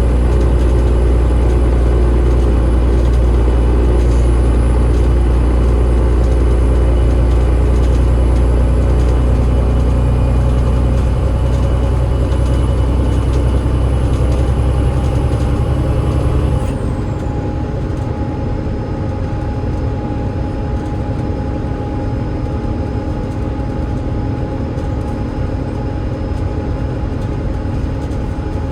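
Double-decker bus drivetrain, a Cummins ISL8.9 straight-six diesel through a ZF EcoLife automatic gearbox, running under load with a deep steady drone and a faint high whine. A little over halfway through the drone drops away and the whine falls in pitch, leaving a quieter, steady running sound.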